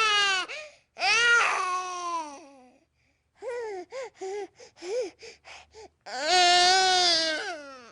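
Baby crying: two long wails, then a run of short, choppy cries, then a last long wail that cuts off suddenly.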